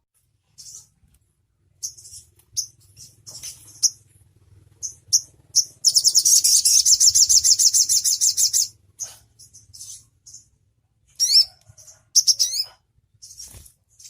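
Konin songbird calling: scattered short, high chips, then a loud rapid trill of about two and a half seconds in the middle, followed by two quick upward-sweeping notes near the end.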